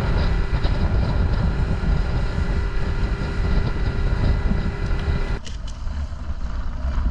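Motorboat engine running steadily, with wind buffeting the microphone. A steady whine in the engine noise stops about five seconds in.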